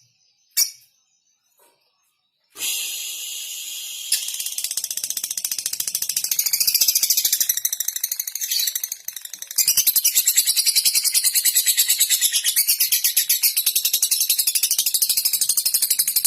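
Lovebird chattering in a fast, unbroken stream of high ticking chirps, the 'ngekek' song, after two short chirps at the start. The chatter begins about two and a half seconds in and gets louder near ten seconds.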